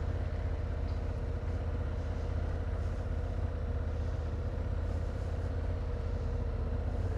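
Motorcycle engine running at a steady pace while riding, with a constant low rumble.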